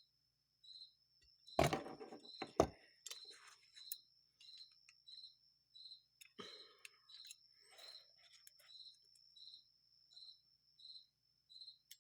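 A cricket chirping steadily, about one chirp every 0.7 seconds, over a thin high whine. A few sharp clicks and knocks of small metal carburetor parts being handled while the float tangs are bent come through, the loudest about two seconds in.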